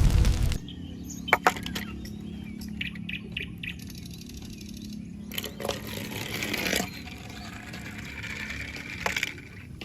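Handling of toy vehicles and their packaging: scattered sharp clicks, a quick run of clicks, and a stretch of rustling over a steady low hum.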